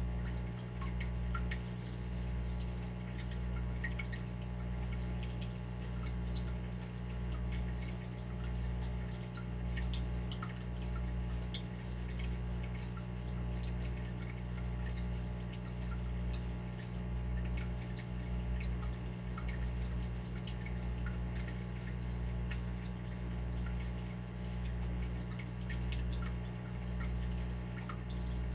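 Water dripping and trickling: many small drips, over a low hum that swells and fades about once a second.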